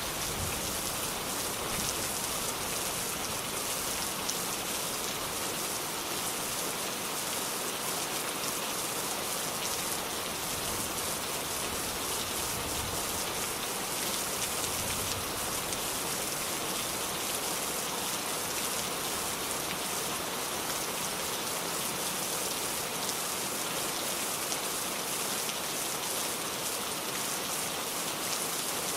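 Steady rain falling, a continuous even hiss with a fine patter of individual drops.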